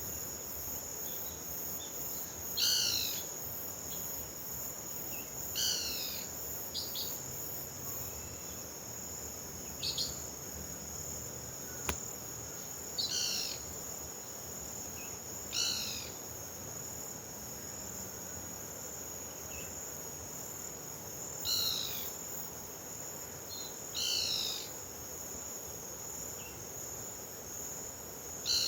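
Steady high-pitched insect chorus, like crickets, with a bird calling about eight times, each call a quick run of falling notes lasting under a second.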